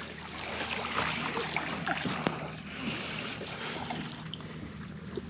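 A kayak being paddled against a current: water splashing and trickling off the paddle around the hull, with scattered light knocks and drips, a little louder about a second in.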